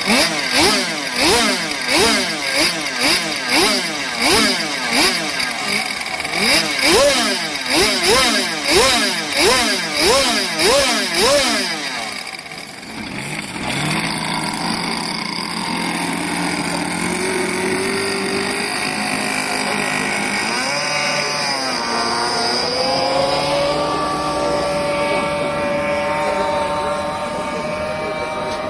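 MATHO four-cylinder engine being revved in quick repeated blips, nearly two a second, each a rise and fall in pitch. About twelve seconds in it drops back and settles into a steady run; its speed wavers briefly past the twenty-second mark, then holds steady.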